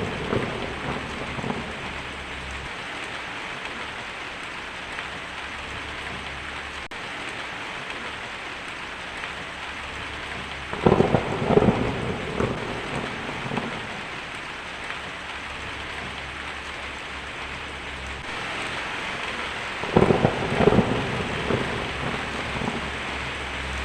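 Steady rain falling, with thunder rumbling and crackling twice: about eleven seconds in, and again about twenty seconds in.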